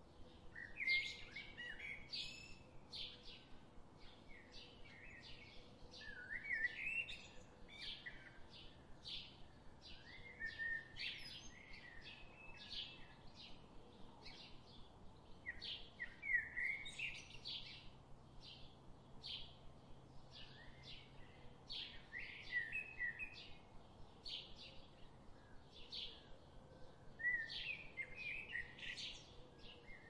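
Birds chirping and singing: a steady run of short, high chirps, with a longer warbling phrase about every five seconds.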